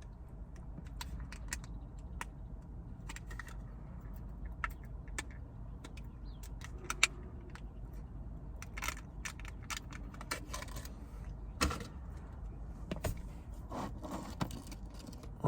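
Food packaging being worked open by hand: scattered crinkles, clicks and taps, with a struggle to get it open.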